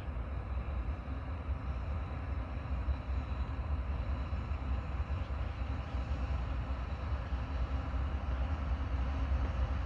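Approaching diesel freight train, a steady low rumble that grows slowly louder as it nears.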